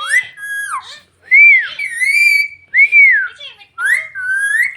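Green parrot giving a string of loud whistled calls, each rising and then falling in pitch, with short gaps between them.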